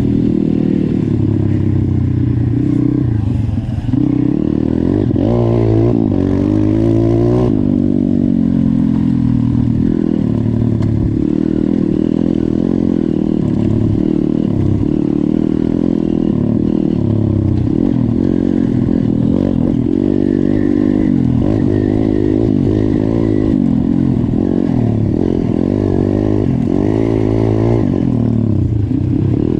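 YCF 150 pit bike's 150cc four-stroke engine running under riding load, its pitch rising and falling repeatedly as the throttle is opened and closed.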